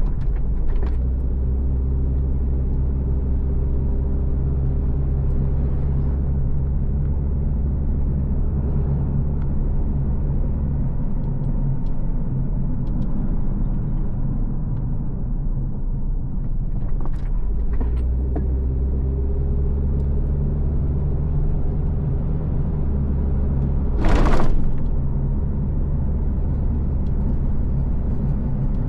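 A car driving along a road: a steady low engine and road rumble, with a few faint clicks and one brief loud rush of noise about two-thirds of the way through.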